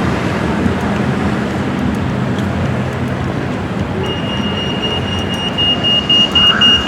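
Busy city-street traffic noise: a steady wash of passing vehicles. About four seconds in, a high-pitched electronic tone starts and turns into rapid beeping, about three or four beeps a second, near the end.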